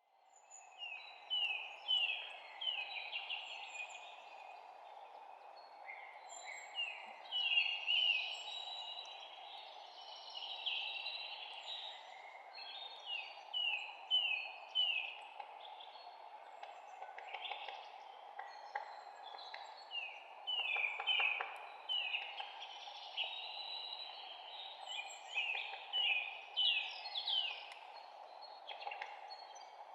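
Several songbirds chirping and singing, mostly in runs of quick down-slurred notes repeated several times over. A steady background hiss runs beneath them.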